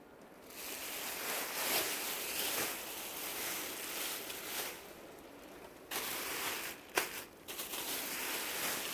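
Rustling and crinkling of dresses and their wrapping being handled, with a few sharp clicks near the end.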